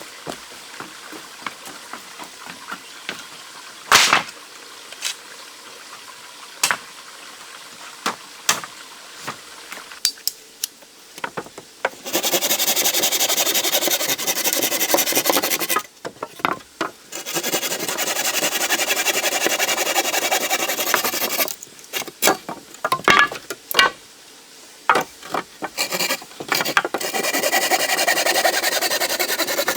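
Scraping on wood in three long stretches of a few seconds each, with scattered sharp taps and knocks before and between them.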